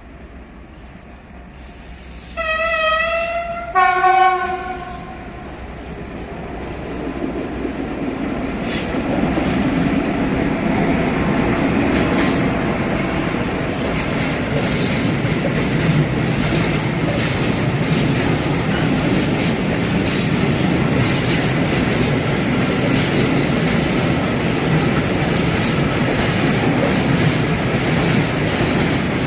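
A train horn sounds two short blasts, the second a little higher in pitch. Then a train comes closer and passes, its steady rumble building and then holding, with wheels clicking over the rail joints.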